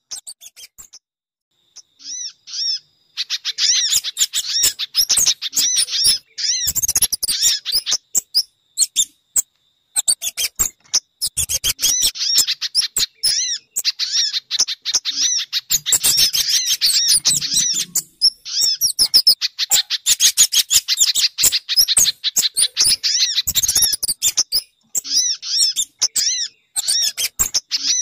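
Bird-lure recording of small birds calling: rapid trains of short, high chirps, many per second, starting after a brief silence about two or three seconds in and running on in dense bursts.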